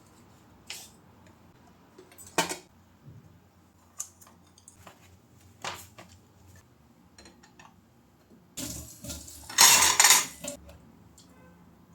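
Kitchen clatter: separate clinks and knocks of dishes and cutlery every second or so, then a louder stretch of about two seconds of clattering and rushing noise near the end.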